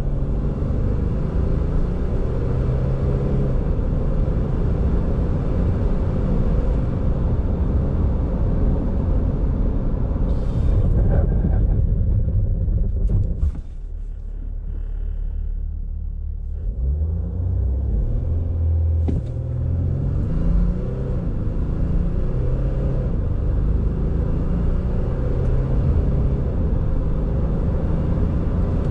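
3.0-litre turbo-diesel V6 of a Mercedes-Benz X350d ute accelerating hard, its note climbing and dropping in steps through the seven-speed automatic's gear changes. About 13 seconds in it eases off and goes quieter, then pulls hard again through the gears.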